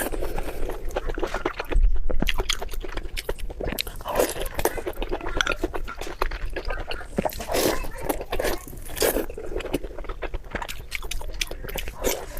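Spicy pork belly being chewed with the mouth open, a rapid, irregular run of wet clicks and smacks.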